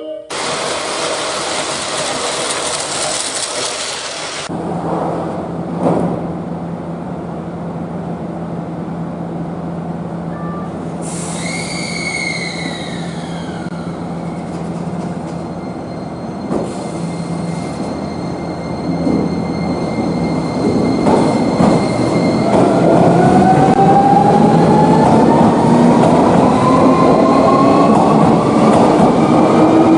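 Electric train at a station: a squeal falling in pitch about eleven seconds in, then the traction motors' whine rising steadily in pitch, getting louder as the train accelerates away.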